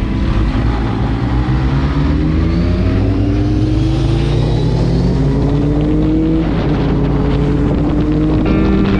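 Motorcycle engine accelerating over wind noise: its pitch climbs slowly, drops back at a gear change about six and a half seconds in, then climbs again.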